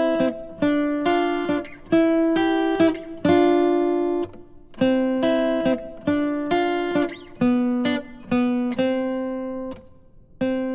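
Background music: an acoustic guitar picking notes and chords, each note starting sharply and ringing away, with a brief pause near the end.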